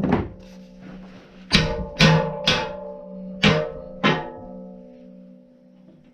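Large steel circular sawmill blade struck six times with a hammer while its inserted teeth are being changed, the blade ringing on after each blow like a bell.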